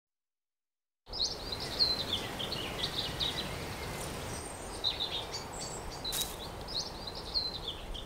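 Songbirds chirping and singing in short, high phrases over a soft, steady outdoor background hiss, starting about a second in after silence.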